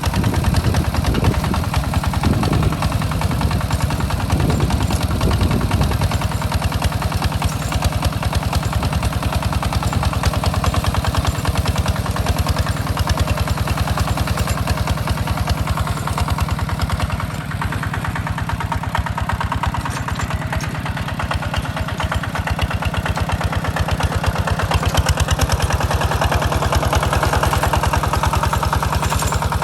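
A hand tractor's engine running steadily with a rapid, even chugging, as it plows a rice paddy.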